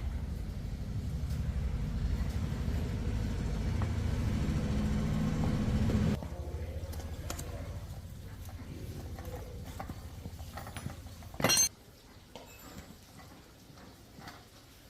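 A motor running with a steady low rumble, dropping off sharply about six seconds in and fading on at a lower level; a short, loud hiss-like burst comes shortly before the end.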